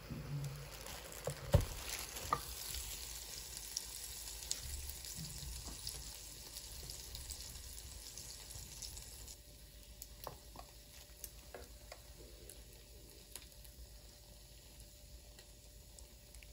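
Tteokgalbi patties sizzling faintly in an electric waffle maker, with a few light clicks and taps. The sizzle drops quieter about nine seconds in.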